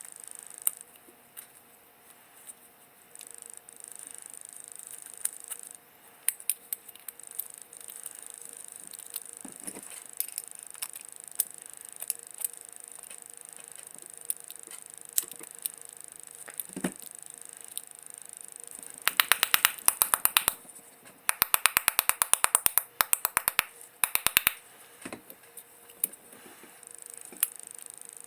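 Scattered small clicks and taps from handling lantern parts, over a steady hiss. About two-thirds of the way in come a few seconds of fast, evenly spaced clicking in several short runs.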